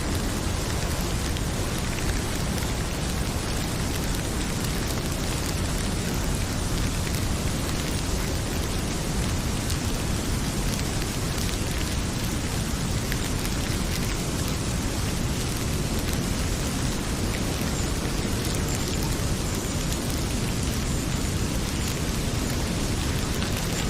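Heavy rain pouring steadily, with a few faint pops from a crackling wood fire.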